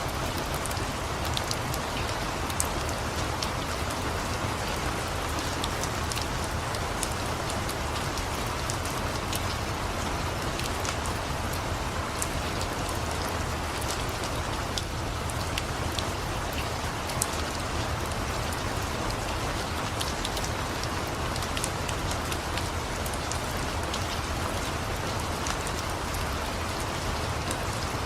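Steady rain, with scattered sharp clicks throughout.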